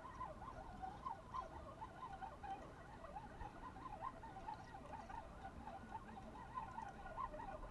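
Shallow river current gurgling and babbling: a steady, faint run of small bubbling blips.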